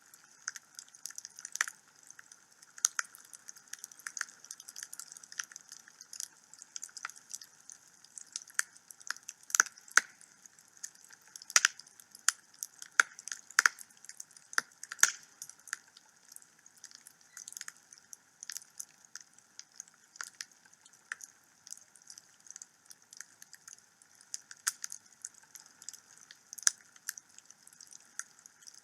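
Wood fire in a home fireplace crackling, with a soft hiss under irregular sharp snaps and pops that come thickest in the middle.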